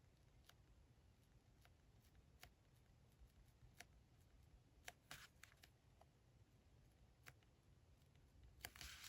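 Near silence with faint, scattered small ticks and two brief soft rustles, about five seconds in and near the end: quiet handling of paper and stationery on a desk.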